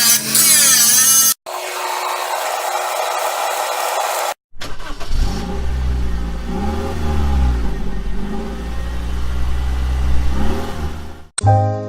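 Car engine running, its revs rising and falling over several seconds, after a short stretch of steady hiss and a brief wavering pitched sound, each cut off abruptly.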